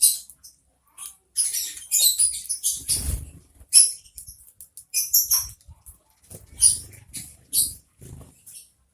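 Sparrows chirping in short, scratchy high bursts at close range, with a few soft thuds of fluttering wings.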